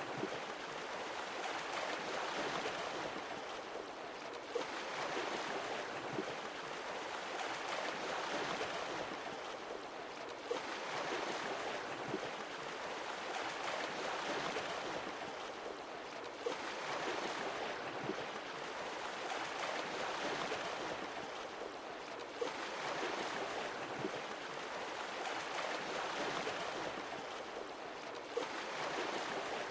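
Sea waves washing ashore, swelling and ebbing in an even rhythm about every six seconds, with a short sharp click as each swell begins.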